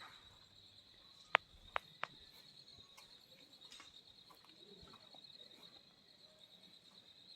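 Crickets trilling steadily at a high pitch, a fine continuous pulsing chirr, with three sharp clicks between about one and two seconds in.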